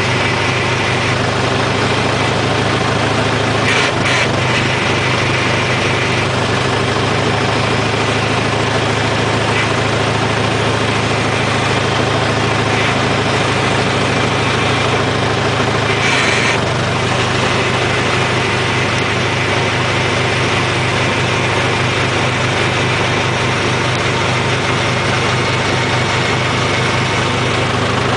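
IHC tractor engine running steadily, with two brief knocks, one about four seconds in and another about sixteen seconds in.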